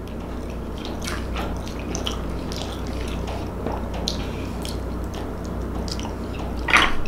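Close-up eating sounds: wet chewing and mouth clicks at irregular intervals, with a louder wet smack near the end as another bite goes in, over a steady low hum.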